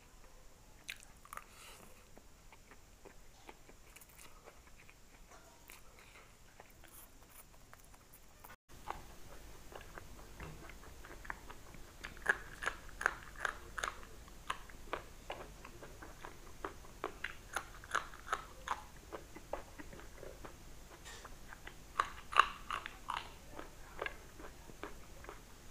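Close-miked mukbang eating: soft, faint chewing, then after a cut a run of crisp, louder bites and crunchy chewing of fried samosas and raw green chillies, coming in clusters with the loudest crunches near the end.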